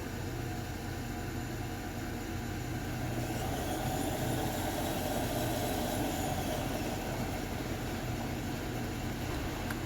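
Cincinnati Milacron universal hydraulic grinder running with its motors on, a steady mechanical hum and whir that swells a little in the middle before settling.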